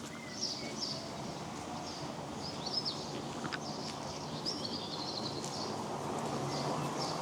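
Small songbirds chirping in short, repeated twittering phrases over a steady low rumble of background noise.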